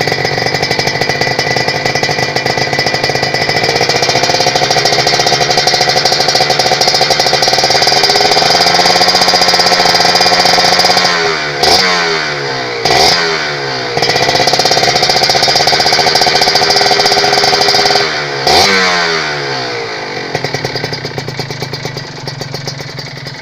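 Kawasaki Ninja RR's two-stroke single-cylinder engine running through an aftermarket DBS Thailand exhaust. It is held at raised revs that climb gradually, then gets three quick throttle blips, each falling back sharply, before settling to a lower idle near the end.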